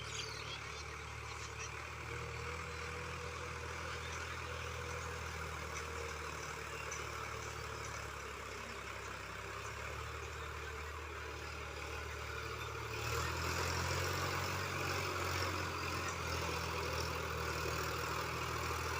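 Sonalika DI-50 RX tractor's diesel engine running steadily, growing louder about two-thirds of the way through.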